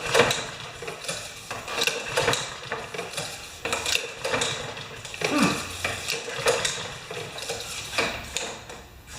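Irregular metallic clicks and clatter of hands and tools working on a lawn mower's engine.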